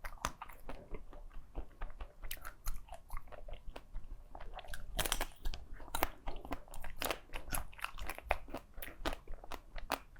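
Close-miked crunching and chewing of ice: a rapid, irregular run of sharp crunches as a mouthful of hard ice is bitten and ground between the teeth.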